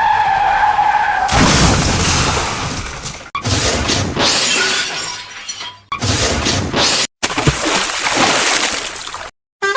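Loud crashing, shattering sound effects in several segments that start and stop abruptly, after a brief high squeal in the first second.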